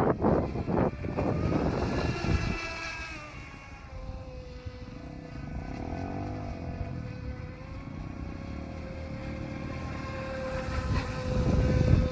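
Whine of an RC scale motor yacht's brushless electric motor. Its pitch falls about two seconds in, then holds steady, with a rushing noise at the start and again near the end.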